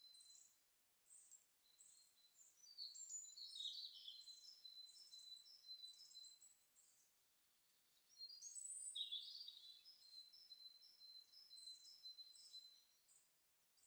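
Faint songbirds chirping and twittering in many quick, high chirps over a thin steady high tone, louder in stretches about three and eight seconds in.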